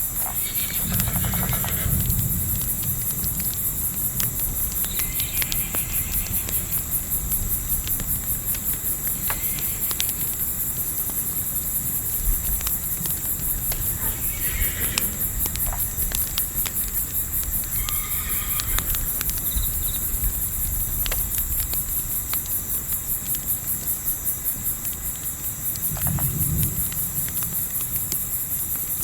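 Night insect chorus of crickets chirping steadily in a fast, even pulse, with the scattered sharp pops of a crackling campfire. Two brief low rumbles come about a second in and near the end, and a few faint short calls sound in between.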